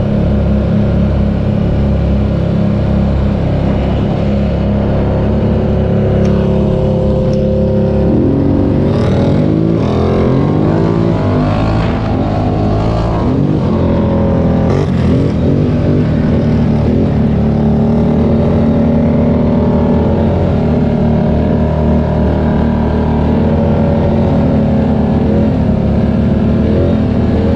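ATV engines running, with the engine pitch rising and falling as they rev about eight to fifteen seconds in, then settling into a steady drone.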